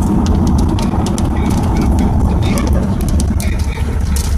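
Strong storm-front wind buffeting the microphone with a steady heavy low rumble, with many quick sharp ticks and clicks over it.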